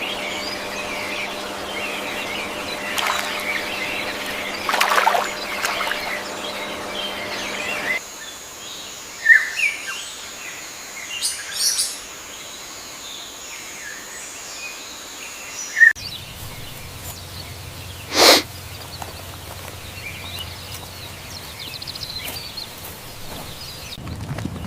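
Small birds chirping and calling in several short clips cut together. A steady hum sits under the first clip, and a high steady tone runs under the middle one. A single short, sharp sound stands out about two thirds of the way through.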